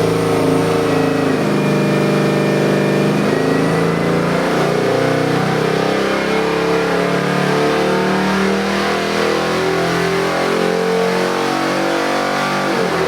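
Ford 7.3-litre Godzilla pushrod V8 crate engine, a 625 hp build, running on an engine dyno at a fairly steady speed, its note wavering slightly.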